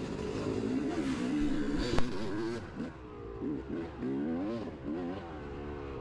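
Dirt bike's single-cylinder engine revving up and down repeatedly under the rider's throttle as it works over rough, wet terrain, with a sharp knock about two seconds in.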